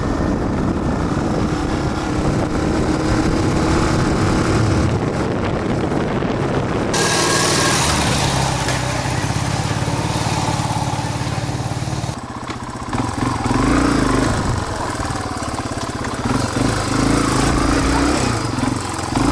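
Motorcycle engine running while riding, with steady road and wind noise; the sound changes abruptly about seven and again about twelve seconds in.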